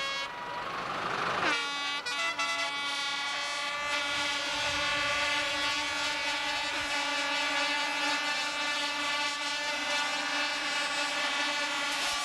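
Competition pulling tractor's engine running at high, steady revs, a steady pitched whine. A rougher, noisier sound gives way to it about a second and a half in.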